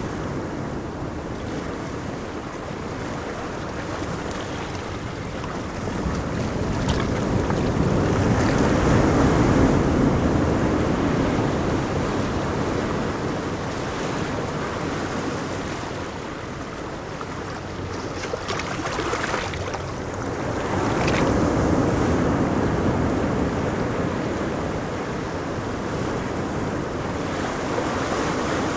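Ocean waves breaking on a beach: a steady wash of surf that swells twice into louder breakers and ebbs away between them.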